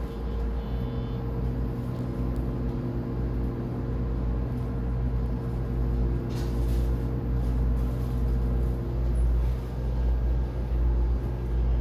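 Inside a JR E231-series commuter train car: a steady low rumble with the steady hum of the train's electrical equipment. A short high beeping comes at the very start, and a brief hiss about six seconds in.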